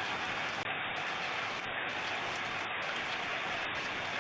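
Steady hiss of heavy rain from a severe thunderstorm, even and unbroken throughout.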